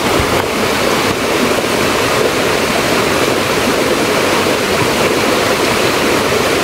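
Loud, steady rush of a waterfall and stream running close by.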